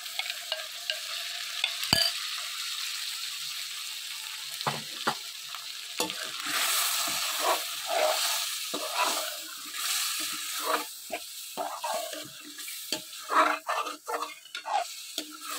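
Chicken sizzling in hot oil and butter in a metal karahi as freshly added yogurt cooks in, the hiss swelling about six seconds in as steam rises. A slotted steel spoon knocks once against the pan near the start, and later stirs and scrapes through the chicken in short strokes.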